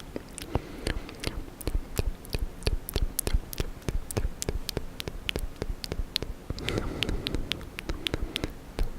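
Close-up ASMR mouth sounds: wet lip and tongue clicks and smacks, irregular, several a second, with a short breathy stretch near the end.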